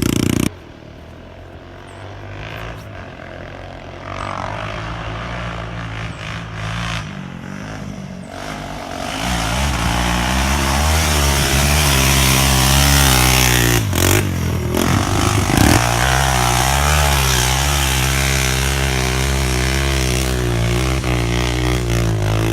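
Dirt bike engine running and revving up and down, growing louder from about a third of the way in, with the throttle briefly chopped twice about two-thirds through.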